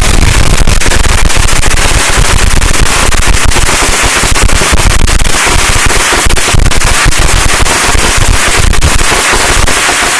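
A string of about 500 firecrackers going off: a loud, dense, continuous crackle of rapid bangs.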